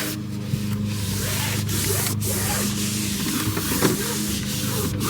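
Cloth wiping dust off a car's interior trim in repeated strokes: a continuous scratchy hiss with brief breaks between strokes, over a steady low hum.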